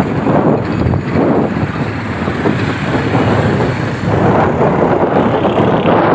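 Ride noise on a moving motorcycle: wind rushing and buffeting over the microphone, mixed with road and engine noise.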